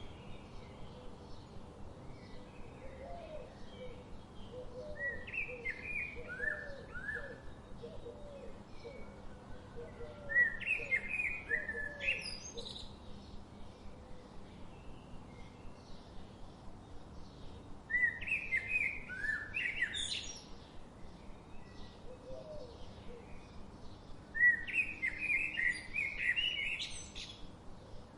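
Songbirds singing: three loud warbled song phrases, each ending in a quick rising sweep, with a softer phrase before them. A lower, shorter call repeats many times in the first half, over a faint regular pulsing in the background.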